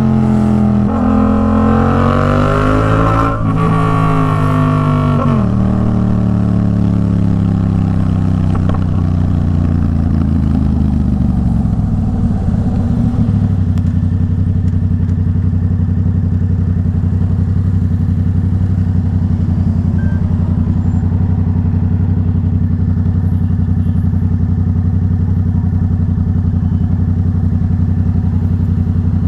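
Yamaha MT-07's parallel-twin engine through an aftermarket Arashi exhaust. The engine pitch rises and falls over the first few seconds, then falls steadily as the bike slows, and about thirteen seconds in it settles to a steady idle.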